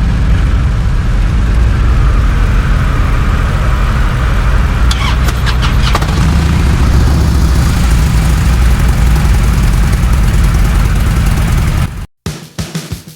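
Motorcycle engine running loud and steady, with a low engine note. The sound cuts off suddenly near the end.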